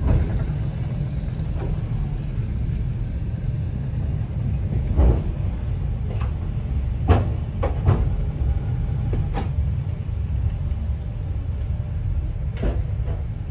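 A freight train of flatcars rolling past close by: a steady low rumble of wheels on rails, with several sharp clacks and clanks scattered through the middle and near the end.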